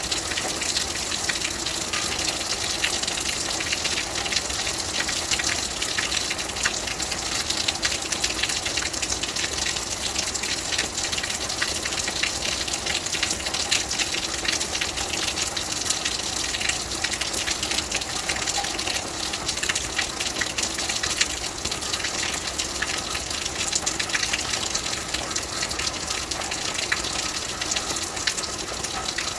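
Rain falling steadily: an even, dense hiss with many tiny drop ticks through it.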